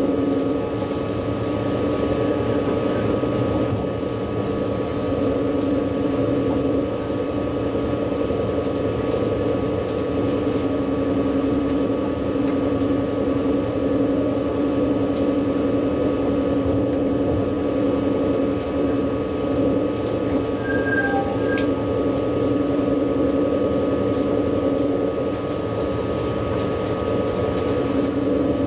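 Steady running noise of an ICE high-speed train heard inside the driver's cab: a continuous rumble with a constant hum and a faint steady whine. A brief short beep sounds about two-thirds of the way through.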